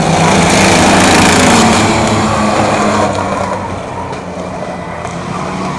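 A field of stock-car racing trucks under full throttle as the pack takes the start of a race, a dense mix of several engines at once. The sound is loudest in the first couple of seconds, then fades steadily as the pack pulls away.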